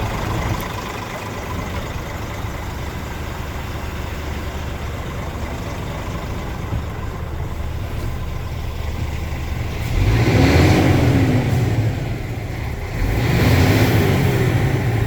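Scania G410 truck's 13-litre six-cylinder diesel engine idling steadily, then revved twice, about ten seconds in and again about three seconds later, each rev rising and falling back.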